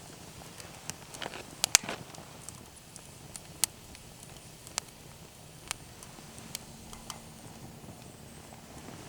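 Wood campfire crackling: irregular sharp pops and snaps over a faint hiss, with a quick cluster of louder pops about two seconds in.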